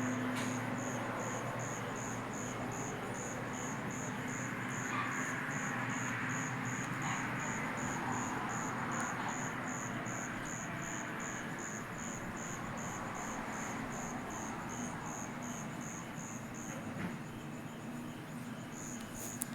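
A cricket chirping in an even, high-pitched pulse of about two to three chirps a second, breaking off briefly near the end, over a steady background hiss and low hum.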